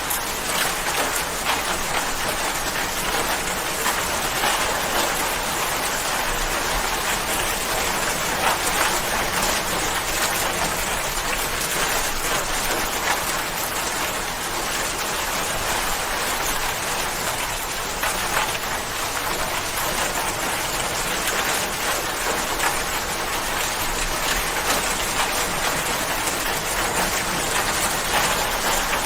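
Steady rain falling and pattering on a surface, an even hiss made of many fine drop impacts.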